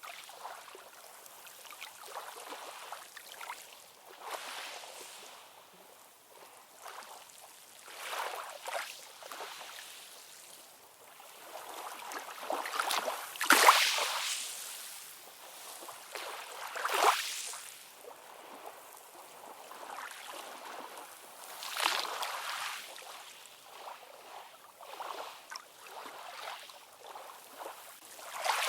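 Ocean waves washing in: a hiss of surf that swells and falls back every few seconds, with little low rumble. The strongest surges come near the middle.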